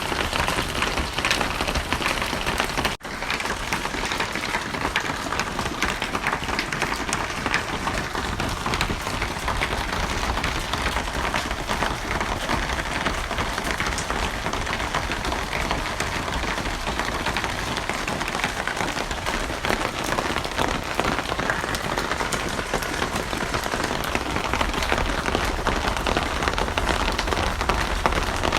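Steady rain falling, a dense even hiss full of fine drop patter. It cuts out for an instant about three seconds in, then carries on unchanged.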